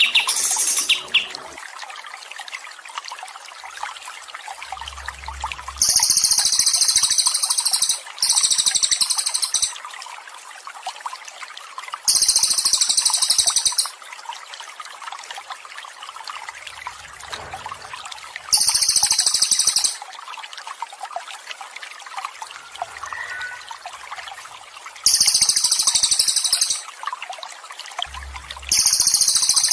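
Steady trickling water under a songbird's song. The bird repeats a loud, very high, rapid buzzy trill of about one to two seconds, roughly every six seconds, sometimes twice in close succession.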